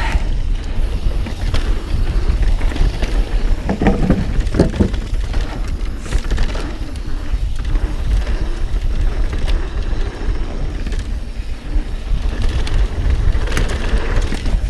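Mountain bike descending a rough trail: tyres rolling over dirt and rock with a steady deep rumble of wind on the helmet camera's microphone, and the bike knocking and clattering over bumps, most sharply about four seconds in and near the end.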